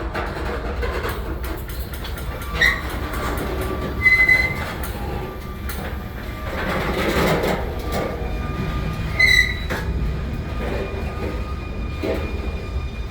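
Freight train rolling on steel rails with a steady low rumble. Steel wheels squeal briefly against the rail about three times, about two and a half, four and nine seconds in.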